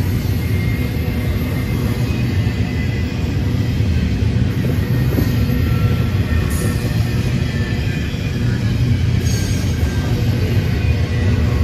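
Diesel freight locomotives running by with a steady, loud low engine drone and the rumble of the train, holding level throughout.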